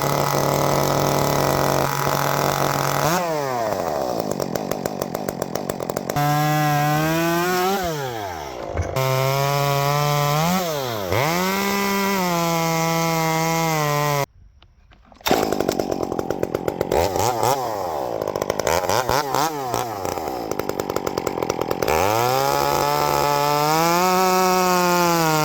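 Two-stroke Stihl chainsaws fitted with custom handmade exhausts, run in a series of short clips: each engine is held at high revs and blipped, its pitch rising and falling. There is a brief cut to silence about halfway.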